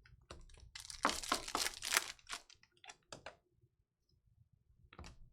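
Crinkling and crackling of trading-card pack wrapping being handled and torn, a dense run of sharp crackles for about three seconds, then one short crackle near the end.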